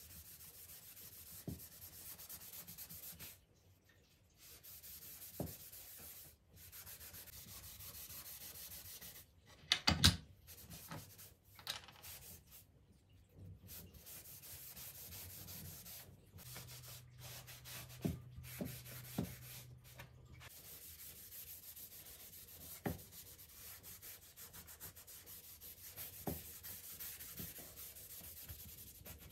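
Soft, steady rubbing and handling sounds, broken by short pauses, with scattered light knocks; a cluster of sharper knocks about ten seconds in is the loudest moment.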